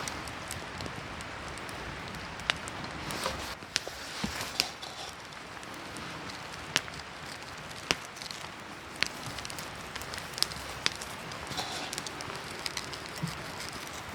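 Wood campfire crackling: a steady hiss with sharp, irregular pops.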